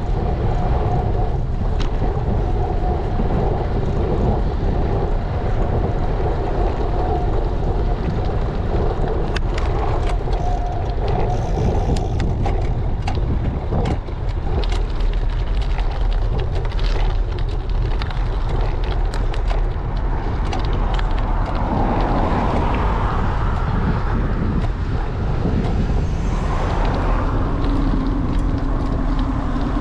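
Wind rushing over a GoPro's microphone during a bike ride, with road noise from the tyres and scattered clicks and rattles from the bicycle.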